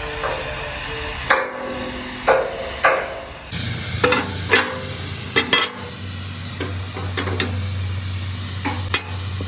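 About a dozen sharp metal-on-metal knocks at irregular intervals, some ringing briefly, over a steady low machine hum.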